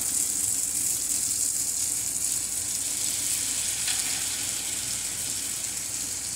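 Linguine, peppers and chicken sizzling in a hot nonstick skillet with soy sauce just added: a steady frying hiss. There is a light click about four seconds in.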